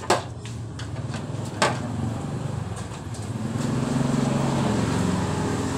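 Small motorcycle engine running, picking up revs and getting louder a little past halfway. Two sharp clicks sound near the start.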